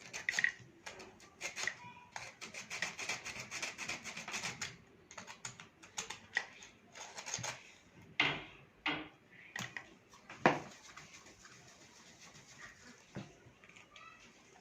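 Sandpaper rubbing in quick, rapid strokes on the scorched metal contacts of a power-strip socket, cleaning off burn residue left by arcing. Busiest in the first few seconds, then slower scraping with a few sharp clicks, the loudest a little past halfway.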